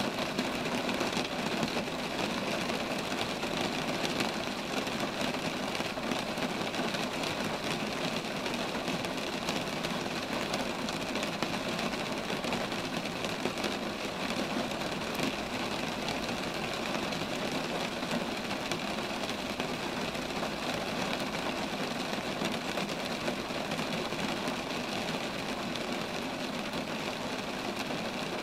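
Steady rain falling on roadside trees: an even, unbroken hiss with many small drop ticks.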